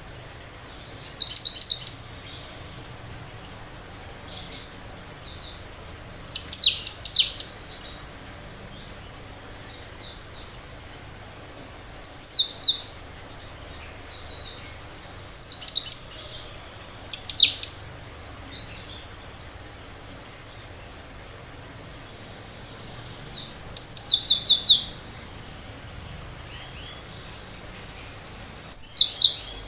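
Cinereous tit (gelatik batu) singing in short bouts of sharp, rapidly repeated high notes, seven bouts spaced a few seconds apart.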